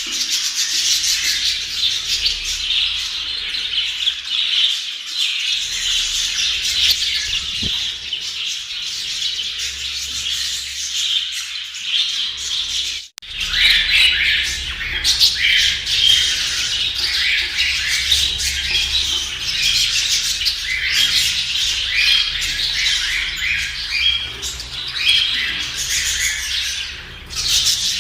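A flock of budgerigars chattering and warbling nonstop, a dense mix of chirps and squawks, with a momentary break about 13 seconds in.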